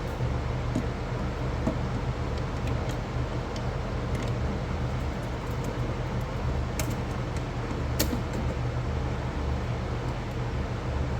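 A steady low machine hum runs throughout, with scattered small sharp clicks and ticks; the two loudest come about seven and eight seconds in, as the plastic bag chute of a pool cleaner is handled and trimmed.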